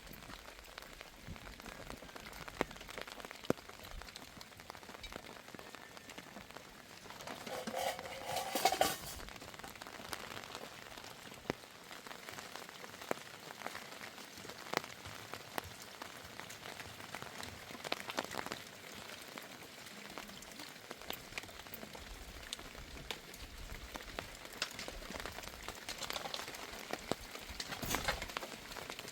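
Rain falling on a surface: a steady patter of many small drops. About eight seconds in, a louder, brief noise with a short pitched part rises over it.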